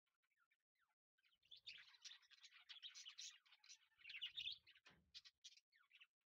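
Faint birds chirping: many quick, overlapping chirps, busiest through the middle and thinning out near the end.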